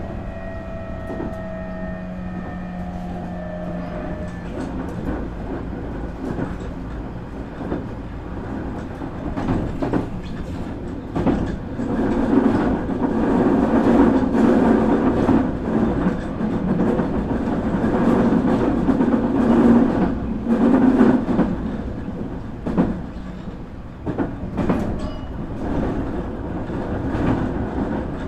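Nankai 8300 series train heard from inside its motor car, with a Hitachi two-level IGBT VVVF inverter and Toyo Denki totally enclosed induction motors. The inverter and motor whine falls in pitch over the first few seconds and fades out as the train slows. After that comes wheel and rail noise with repeated clacks from rail joints, louder through the middle stretch.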